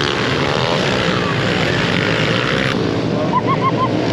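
Several pit bike engines running together during a race, their pitches wavering and overlapping as the riders rev on and off the throttle.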